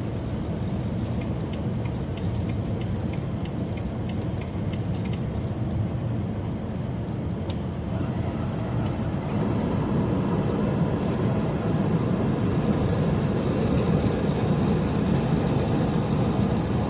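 Inside a semi-truck's cab at highway speed: steady engine drone with tyre and road noise, with a few faint ticks in the first several seconds. The road noise grows louder and hissier about eight seconds in.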